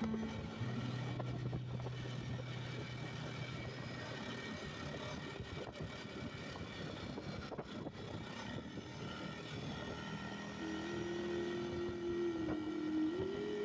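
Kuba 570 ATV's engine running steadily while riding at road speed, with a rushing road and wind noise. Near the end its pitch steps up briefly.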